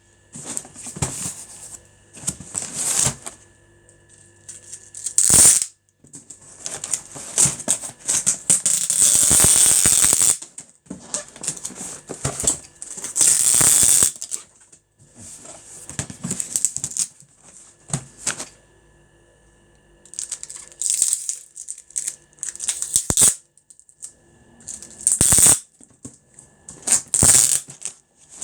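Packing noise: irregular bursts of rustling and scraping as paper and packing material are handled around a cardboard box, with quieter pauses between them.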